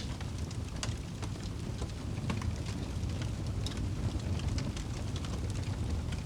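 Wood fire burning in a fireplace: a steady low rumble of flame with frequent sharp crackles and pops from the burning wood, several a second.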